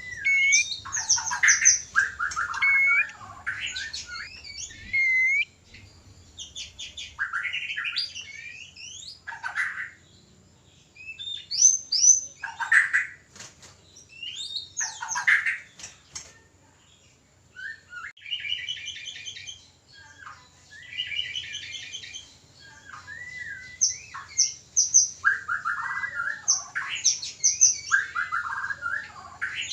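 White-rumped shama (murai batu) courtship song: a run of varied whistled phrases, upslurs and chattering notes, with fast repeated-note trills through the middle and short pauses between bursts.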